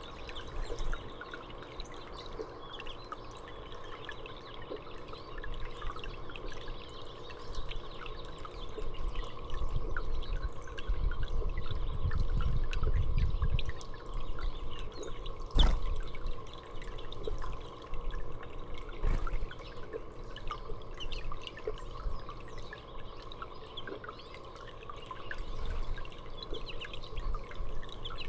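Water trickling and dripping steadily, with many small scattered drips and clicks. A low rumble swells about halfway through, and one sharp click follows shortly after.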